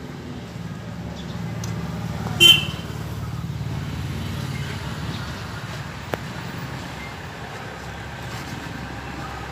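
Road traffic rumbling steadily, with one short, loud vehicle horn toot about two and a half seconds in and a sharp click a few seconds later.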